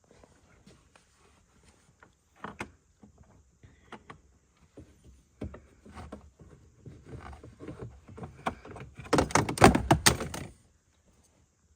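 Hands working under a vehicle dashboard: scattered clicks and knocks of parts being handled while a replacement heater part is fitted. The sounds come faster about seven seconds in, build to a dense clatter about nine seconds in, and stop abruptly.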